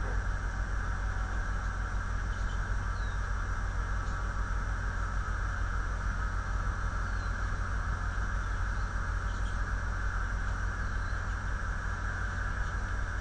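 Steady electrical hum and hiss from a webcam's outdoor microphone, with a few faint, short high chirps now and then, typical of small birds calling.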